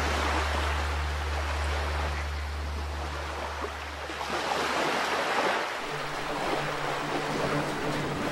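Water rushing and splashing along a sailing boat's hull, swelling and easing twice. Steady low music notes play underneath, drop out about halfway through, and a new strand of music comes in near the end.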